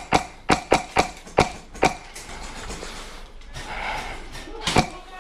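Airsoft gun firing single shots in quick succession, about seven sharp snaps in the first two seconds, then a lull and one more shot near the end.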